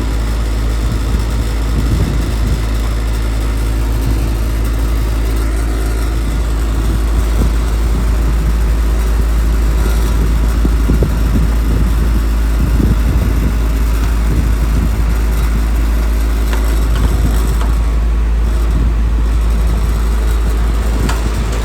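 Air-conditioning system running, a loud, steady low mechanical hum that holds unchanged while the system is being charged and checked for cooling.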